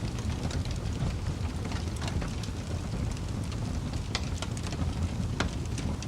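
Wood fire crackling: a steady low rumble of burning with frequent irregular pops and snaps, a few of them louder and sharper.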